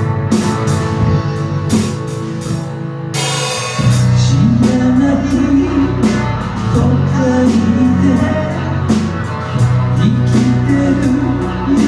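Live rock band playing an instrumental passage on drums, electric guitar and bass. A cymbal crash comes about three seconds in, after which the band plays fuller, with a melodic lead line over the bass.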